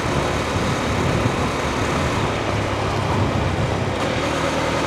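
Husqvarna Svartpilen 401's single-cylinder engine running steadily, under a steady haze of road and traffic noise.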